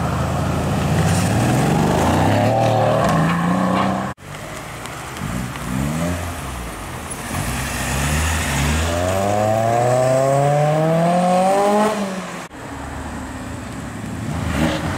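Performance car engines accelerating hard away in three short edited clips, engine pitch climbing steadily. First a Mercedes-AMG C63 estate's V8 pulls away; after a cut, another car revs up in one long rising pull; after a second cut, an Audi RS3 pulls out near the end.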